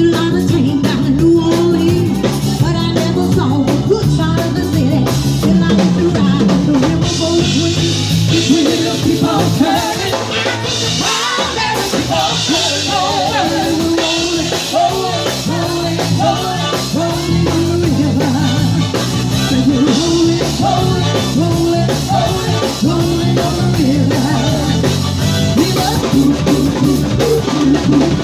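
Live band playing a rock song with a singer, drum kit, bass and guitar, the drums keeping a steady beat.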